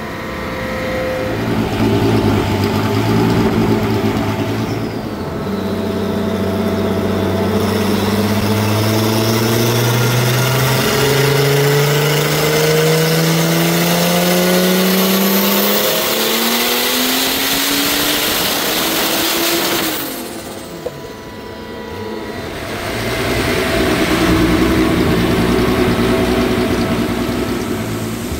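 Turbocharged 12-valve VR6 engine making a full-throttle pull on a chassis dyno: the engine note climbs steadily for about ten seconds and cuts off about twenty seconds in. A single sharp pop follows, then the engine revs up again near the end.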